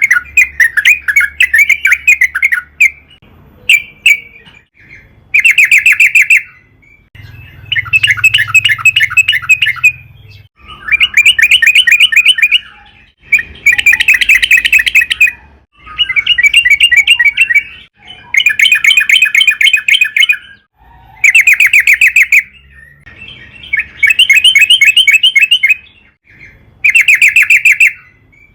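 Yellow-vented bulbul (trucukan) singing: a string of loud bouts of quick, bubbly chattering notes, each lasting one to two seconds, with short pauses between.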